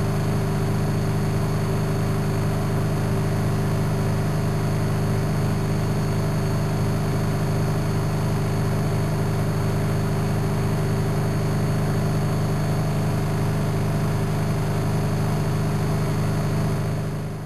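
Studio WM26AAA washing machine running with a steady, even mechanical hum, then dying away quickly right at the end.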